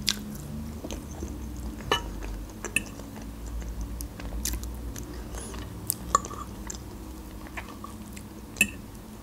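Close-miked chewing of soft meringue roll, with scattered small wet mouth clicks. Near the end there is a sharper click as the fork touches the plate.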